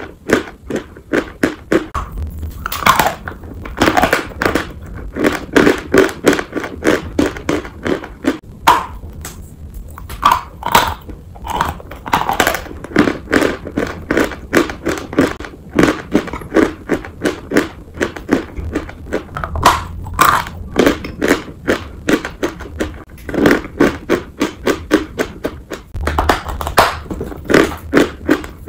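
Dry chalk being chewed close to the mouth: a steady run of crisp crunches, about two to three a second, with a few louder, sharper crunches now and then.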